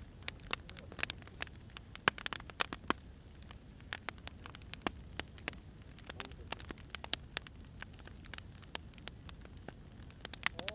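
Firewood burning, with irregular sharp crackles and pops over a steady low rumble.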